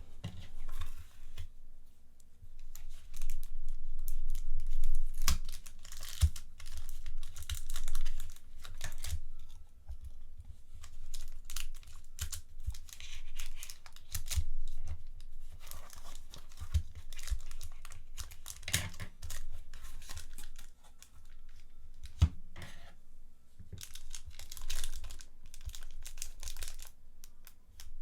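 Packaging being unwrapped by hand: irregular tearing and crinkling of tape and wrapping, with scattered small clicks and knocks.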